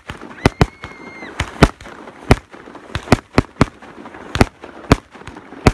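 Aerial fireworks bursting overhead: a rapid, irregular run of sharp bangs, about four a second.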